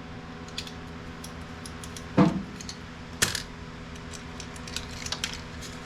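Small plastic and metal printer parts being handled during disassembly: scattered light clicks and clinks, with two louder knocks about two and three seconds in.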